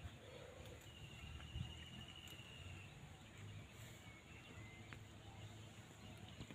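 Near silence: quiet lakeside ambience, with a faint bird trill at one pitch for about two seconds starting about a second in, and a couple of faint chirps a little later.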